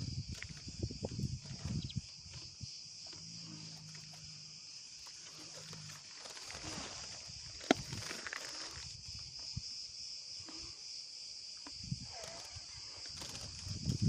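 Steady high-pitched chirring of insects, crickets, with low thumps and rustles in the first couple of seconds and again near the end, and one sharp click about eight seconds in.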